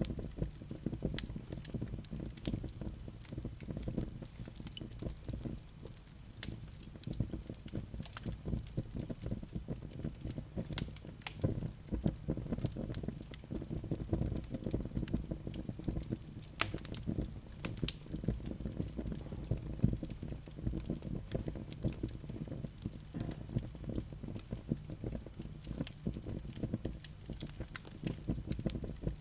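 Wood fire burning in a fireplace: a steady low rumble of flames with irregular crackles and small pops of burning wood throughout.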